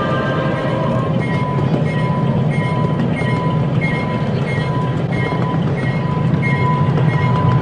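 Miniature ride-on train rolling along its track: a steady low rumble of wheels and drive. From about a second in there is a short high tick about every two-thirds of a second.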